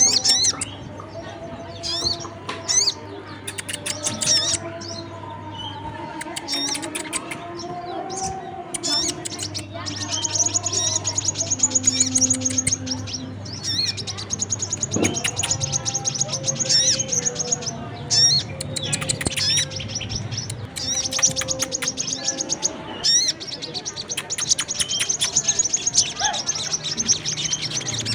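Bird-lure recording of sogon and brown-throated sunbird calls mixed together: rapid high chirps and long, high, buzzy trills, played to call birds of these kinds to gather. A low steady hum runs under much of it.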